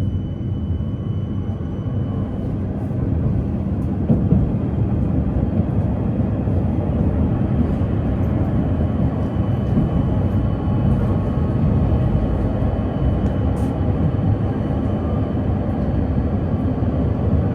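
Steady rumble of a PKTS 71-931M Vityaz-M low-floor tram running along the line, heard from inside the car: wheels on rails and running gear, with a faint steady tone over it in the second half.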